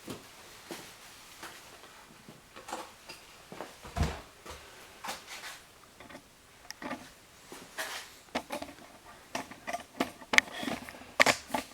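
Irregular clicks, rustles and light knocks, growing busier toward the end, with one louder thump about four seconds in.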